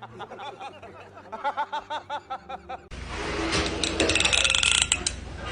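A person snickering and laughing in quick repeated short breaths. About three seconds in, it cuts abruptly to a louder, dense noisy sound.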